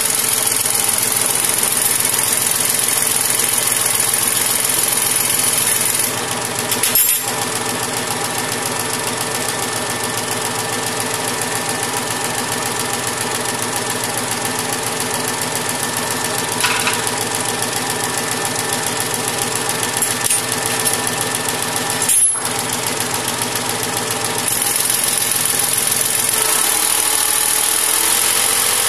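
Mahindra tractor's diesel engine running steadily, with a few short clicks along the way.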